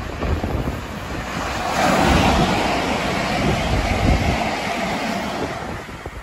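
Electric passenger train passing close by and running away down the line: a rushing noise of wheels and air that swells about two seconds in and fades near the end, with some wind on the microphone.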